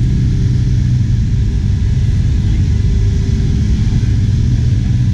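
Car engine idling close by: a steady low rumble that holds even throughout.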